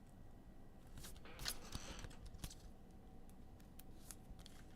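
Faint scrapes and light clicks of trading cards being handled and flipped through, a few separate strokes.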